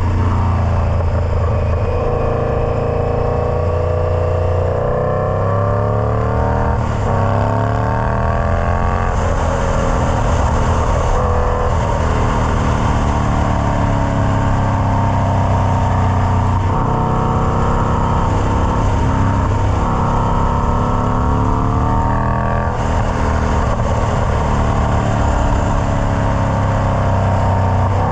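Indian Scout Bobber's V-twin engine through a Freedom Performance Combat 2-into-1 exhaust, its note rising and falling several times as the throttle is opened and closed.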